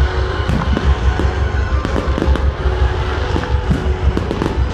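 Aerial firework shells bursting one after another, with repeated sharp bangs, deep booms and crackling.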